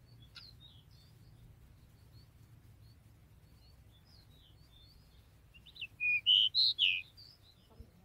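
Magpie-robin calling: faint scattered high chirps, then a loud burst of about five quick whistled notes around six to seven seconds in.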